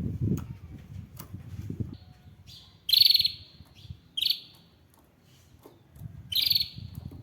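Canary giving three short, loud, rapid trilled chirps, high in pitch, about three, four and six and a half seconds in. Low rustling and bumping noise comes before the first trill and again near the end.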